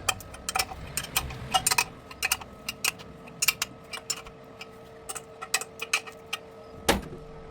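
Irregular sharp metallic clicks and taps from tools and bolt hardware being handled, with one louder knock about seven seconds in.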